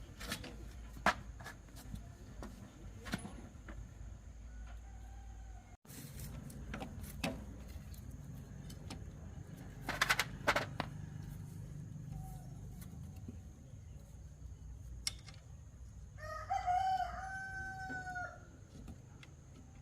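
A rooster crows once near the end, a single call of about two seconds. Scattered sharp knocks and clicks come before it.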